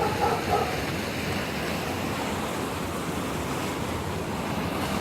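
Steady rushing of water flowing over a small dam.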